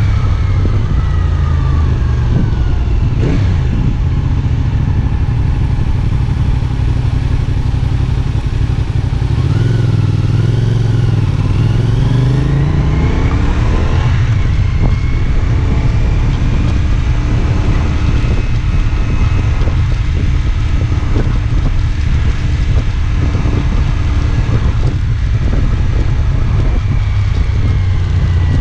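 CFMoto 450SR S parallel-twin engine running under way, heard from the bike with heavy low rumble and wind noise. About a third of the way in the engine pitch dips and then climbs again as the revs drop and rise, then settles into a steady drone.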